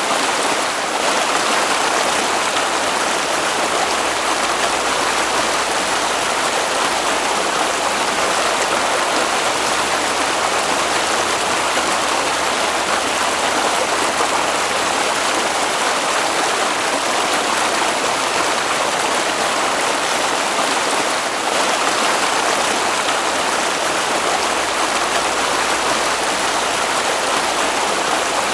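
Water flowing in a stream, a steady continuous rushing that does not change.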